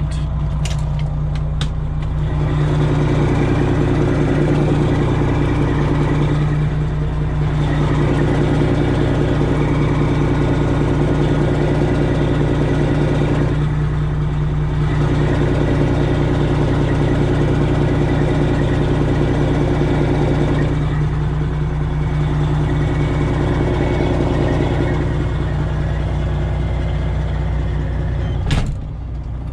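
Straight-piped Detroit Diesel 12.7 engine of a Freightliner Classic XL semi running at low revs while the truck maneuvers, its note swelling and easing several times. A sharp click comes near the end.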